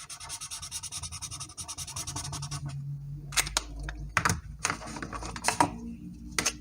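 Colouring tool scratching on paper: quick back-and-forth colouring strokes for the first couple of seconds, then a handful of separate, longer strokes.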